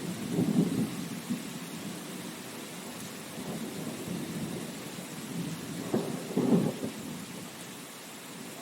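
Steady rain, with two low rumbles swelling up briefly, one about half a second in and another around six and a half seconds in.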